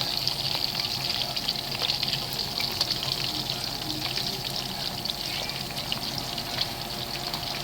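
Sausage pieces frying in hot oil: a steady sizzle full of fine crackles and pops.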